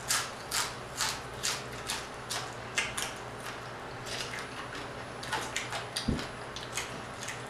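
Close-miked eating of crispy fried croaker: sharp crunching and wet mouth clicks, about two a second at first, then a quick run of them later on, with one low thump about six seconds in.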